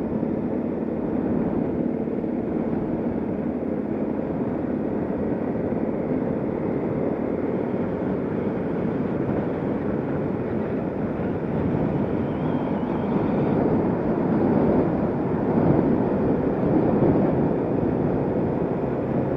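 Motorcycle engine running at a steady lapping pace with wind noise, getting somewhat louder about two-thirds of the way through.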